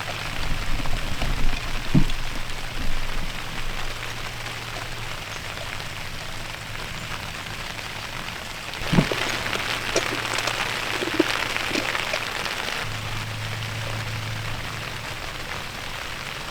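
Steady rain falling on the fabric of a teepee tent, heard from inside, with a few brief knocks and a busier spell of handling noise about nine seconds in.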